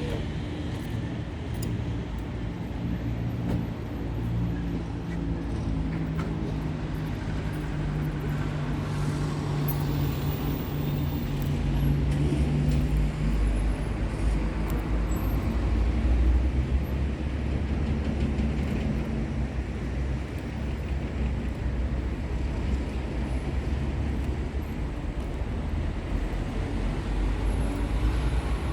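Road traffic: a motor vehicle's engine hum, which turns to a louder low rumble about halfway through as a vehicle comes closer.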